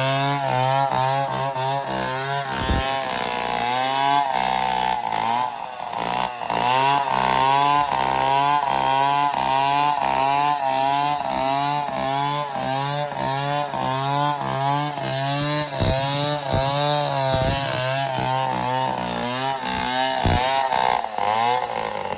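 Chainsaw running steadily, its engine pitch dipping and recovering over and over as it works under load.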